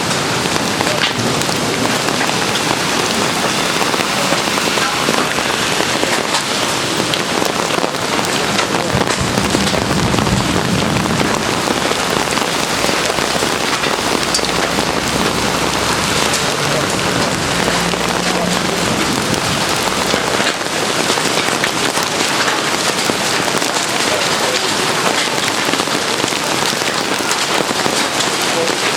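Heavy rain pouring down steadily, a dense hiss of drops on surfaces with fine patter, and a low rumble twice in the middle.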